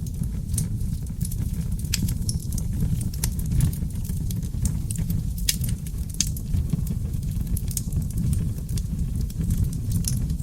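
Wood logs burning in a fireplace: a steady low rumble of flames with irregular sharp crackles and pops, several a second.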